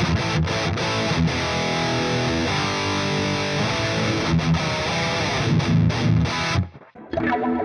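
Epiphone Widow Les Paul Custom electric guitar played through distortion. The playing cuts off sharply about six and a half seconds in and starts again about half a second later.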